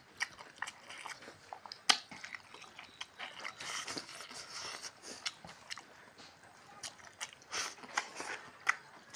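Eating by hand: chewing and smacking mouth sounds with many small wet clicks as fingers work rice and curry on a plastic tray, one sharp click about two seconds in.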